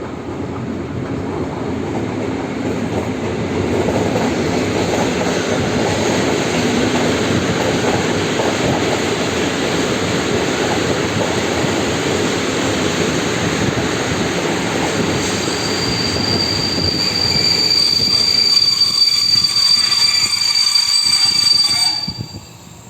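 Passenger train pulling into a station: a loud rolling rumble of wheels on the track that builds over the first few seconds. About two-thirds of the way in, a high, steady squeal sets in as the train slows. Near the end the sound drops off suddenly.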